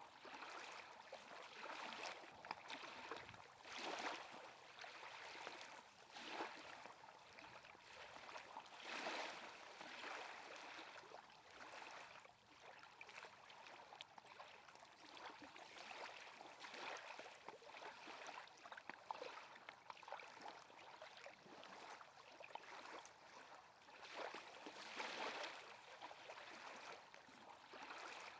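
Faint lapping and gurgling of lake water, rising and falling every few seconds.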